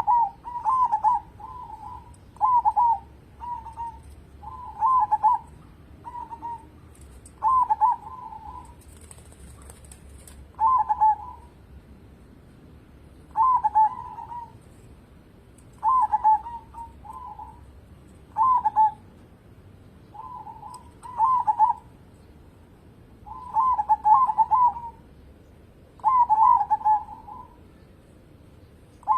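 Zebra dove (perkutut) cooing: short phrases of quick, rolling coo notes, repeating every one to three seconds.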